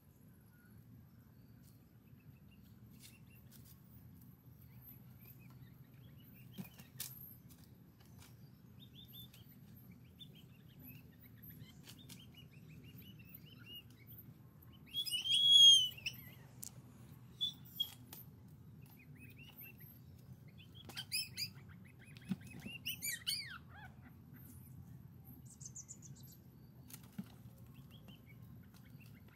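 Wild birds chirping, with a loud burst of calls about halfway through and a few more chirps soon after, over a low steady hum. A few light knocks are scattered among them.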